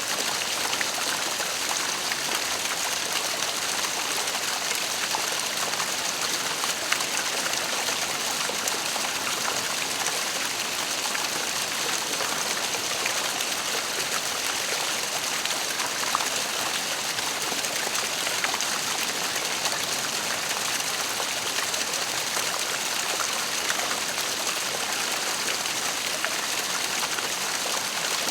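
Waterfall: a steady rush of falling water, even and unbroken, with a bright hiss in the higher tones.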